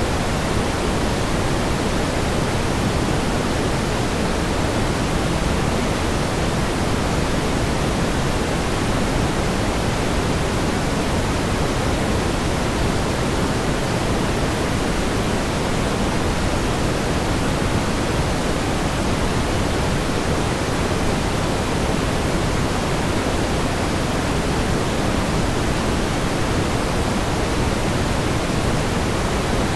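Steady pink noise: an even, unchanging hiss, fuller in the lows than in the highs.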